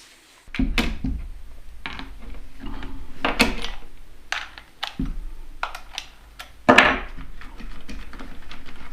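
Scattered clicks and knocks of a small cordless mini chainsaw's plastic and metal parts being handled, with one louder knock near the end, over a low rumble.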